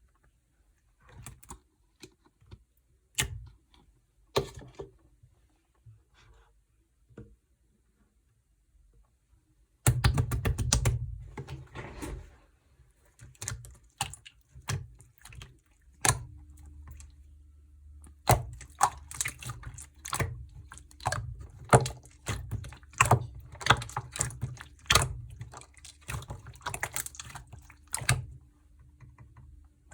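Translucent slime being pressed and stretched by hand, giving sticky clicks and small pops. The clicks are sparse at first, then turn dense and crackly about a third of the way in.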